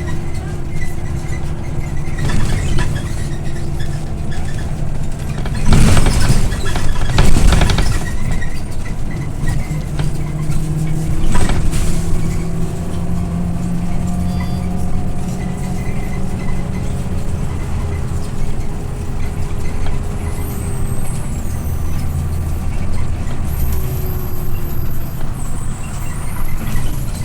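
Scania OmniLink I city bus on the move, heard from inside: its engine runs steadily with slow changes in pitch as the speed changes. Two loud rushing bursts come about six and seven and a half seconds in, and a shorter one near eleven and a half seconds.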